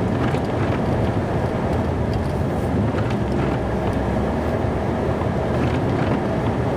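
Snow plow truck running steadily, a low continuous rumble heard from inside the cab.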